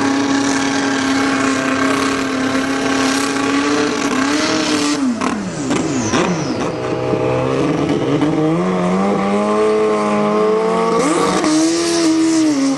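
Drag-racing sport bikes' engines held at steady high revs for about four seconds, then launching. The pitch swoops down as the bikes pass, then climbs again through the gears, with short dips at the shifts near the end.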